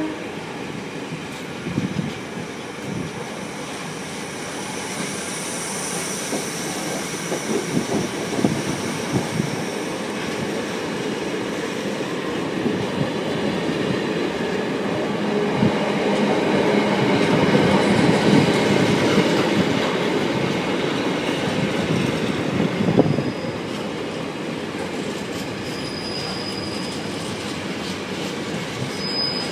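Container freight train's wagons rolling past, a steady rumble of wheels with clicks over rail joints. A faint high wheel squeal comes in now and then. The rumble builds to its loudest past the middle and then eases.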